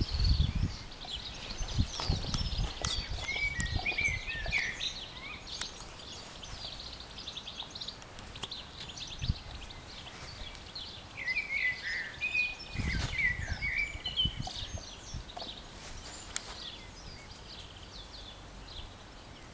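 Birds singing and chirping, with warbling phrases a few seconds in and again about two-thirds of the way through. Low rumbles come near the start and again with the second phrase.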